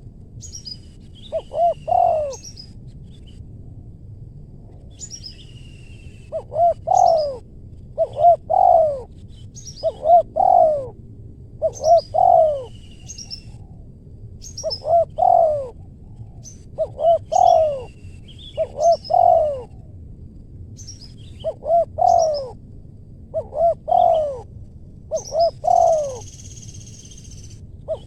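Spotted dove cooing in repeated phrases of two to four notes, the last note longest, about one phrase every two seconds, the calling of a decoy set out to lure wild doves. Small birds chirp faintly and high above it, and a short buzzy sound comes in near the end.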